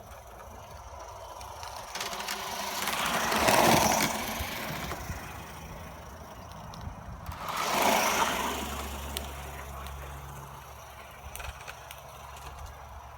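BR Standard Class 4MT tank locomotive, heard as two loud rushing surges about four seconds apart, each swelling and dying away over a couple of seconds, followed by a low steady hum.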